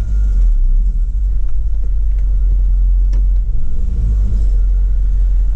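Audi TT Mk1 driving, heard from inside the cabin: a steady low rumble of engine and road. Under it is the groaning, rubbing noise from under the front of the car, which the owner traces to the downpipe rubbing against the subframe.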